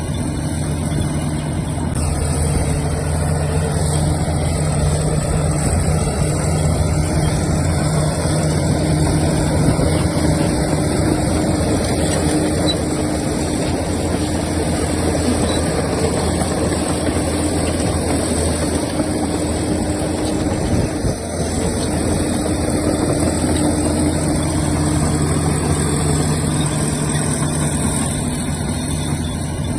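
Heavy diesel engines of earthmoving machinery running steadily, their note shifting a few times as the load changes.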